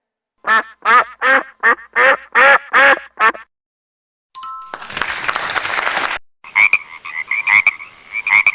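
Animal call sound effects: a quick run of about eight short, evenly spaced calls, then after a short gap a burst of noise lasting about a second and a half, followed by a steady chorus of rapid pulsing calls.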